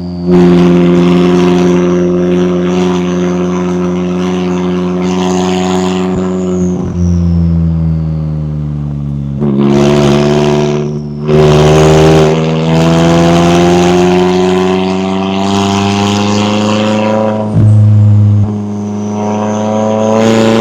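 McLaren 570S twin-turbo V8 running under way. The engine note holds steady, falls in pitch as the car slows from about seven seconds in, then climbs again as it accelerates, with louder surges near the middle and towards the end.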